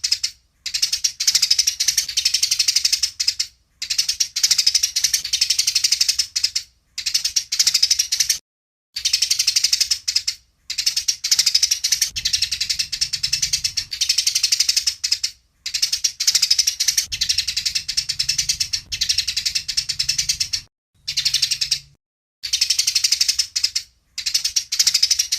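Eurasian tree sparrows giving rapid, harsh fighting chatter in bouts of a few seconds, each starting and cutting off suddenly with short silent breaks between.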